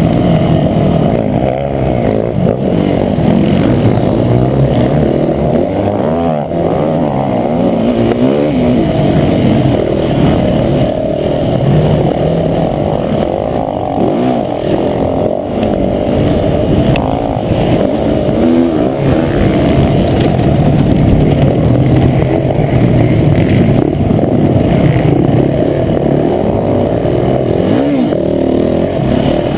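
Motocross bike engine running hard on the track, its pitch rising and falling over and over as the rider revs and backs off, with the odd brief knock.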